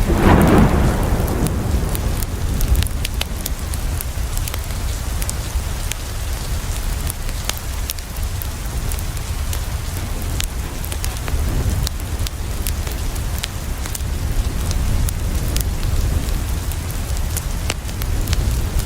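Steady rain on a window, with scattered sharp ticks. A loud thunder rumble fades out over the first second or two, and a fainter rumble comes about eleven seconds in.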